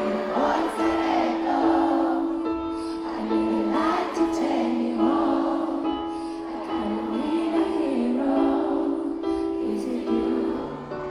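Live concert audio of a pop ballad: a woman singing a slow melody over held keyboard chords.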